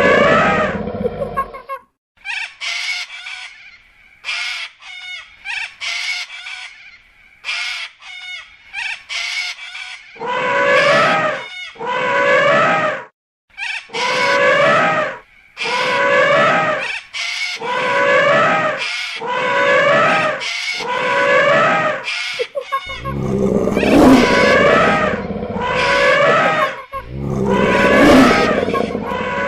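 Recorded animal calls in sequence: a roar at the start, then quick high bird chirps, then a run of repeated falling calls about once a second, and two long loud roars near the end.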